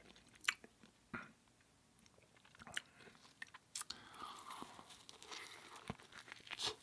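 Close-miked eating sounds of a person biting into an English muffin breakfast sandwich with plant-based sausage, egg and cheese. A few sharp, crisp bites come first, then steady chewing from about four seconds in.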